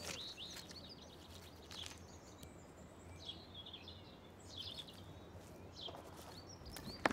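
Faint birdsong: small birds chirping and warbling now and then, over a low steady hum.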